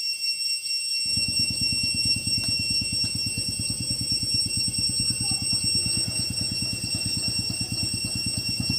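A small engine running with a fast, even, low pulsing that starts about a second in, over steady high-pitched tones.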